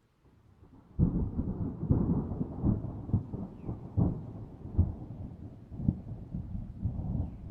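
A thunderclap breaks suddenly about a second in and rolls on as a low rumble, with several sharper cracks within it, easing off near the end.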